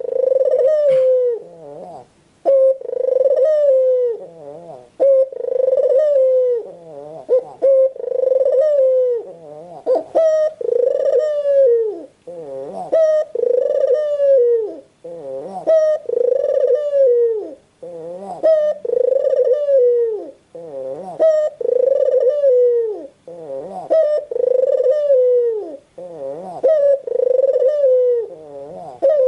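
White puter dove (domestic ringneck dove) cooing over and over in a steady rhythm, about one coo every one and a half to two seconds, each coo dropping in pitch at its end.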